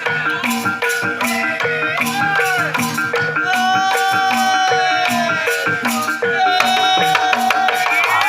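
Javanese gamelan music in Banyumasan tayub style: struck bronze metallophones and gongs keep a steady, even rhythmic pattern. From about two seconds in, a sinden, the female singer, sings long, bending melismatic lines over them.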